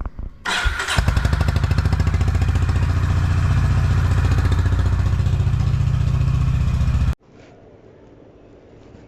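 Honda H'ness CB350's single-cylinder engine starting about a second in and idling with a steady, even thump, then cutting off abruptly near the end.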